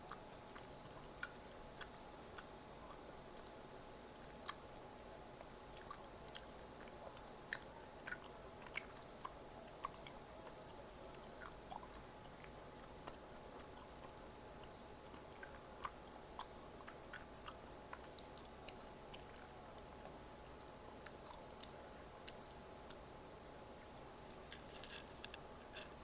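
Close-miked chewing of food, with irregular sharp mouth clicks and light crunches spread through, thinning out for a few seconds past the middle.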